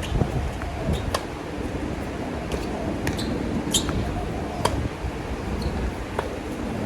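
Tennis racket strikes and ball bounces: about six sharp pops spaced a second or more apart, over steady wind buffeting the microphone.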